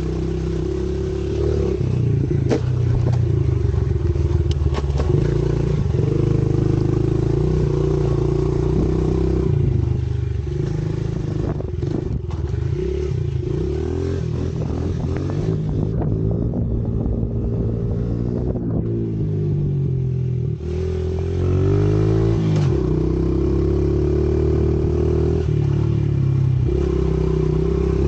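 Pit bike engine running as it is ridden, its pitch rising and falling with the throttle. About two-thirds through it eases off, then picks up again to a steady, louder run.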